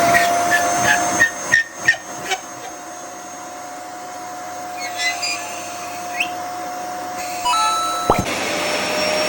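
Vacuum cleaner running with a steady whine over its airflow noise, with several sharp knocks and clatters in the first couple of seconds. It cuts off suddenly about eight seconds in.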